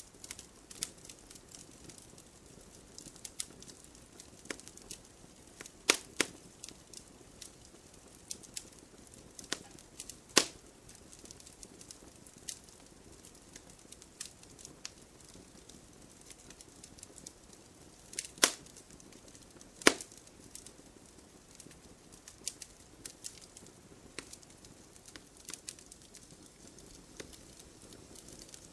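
Wood fire crackling: scattered small crackles over a low, steady hiss, with four louder sharp pops about 6, 10, 18 and 20 seconds in.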